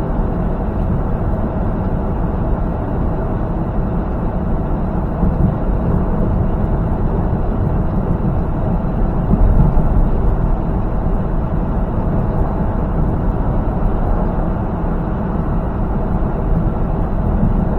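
Steady drone of a semi-truck's engine and tyres at highway cruising speed, heard from inside the cab, swelling slightly about ten seconds in.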